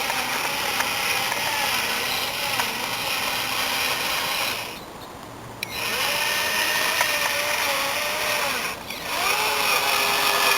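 Electric drive motor and gearbox of a home-built RC trial truck whining. The pitch rises and falls with the throttle, and the whine drops away for about a second around five seconds in and briefly again near nine seconds.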